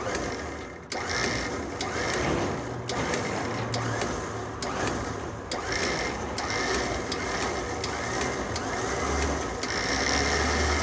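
Electric recovery winch running, winding steel cable onto its drum, with irregular clicks over a steady motor whir. The cable is kinked, which keeps it from winding on cleanly.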